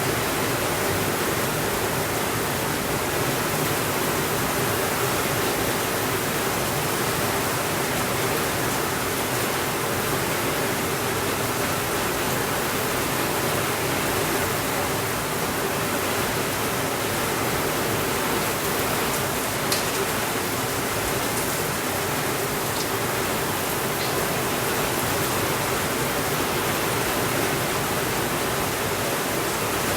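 Steady, even rainfall, a dense hiss with no changes in level. A few faint clicks sound in the second half.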